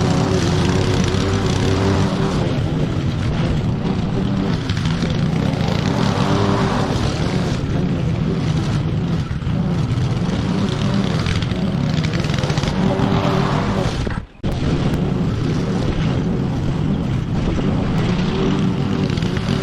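Petrol lawn mower engine running steadily while cutting grass, with the sound dropping out for a split second about fourteen seconds in.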